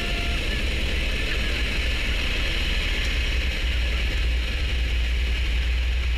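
Helicopter running, a steady low rumble with hiss and no break.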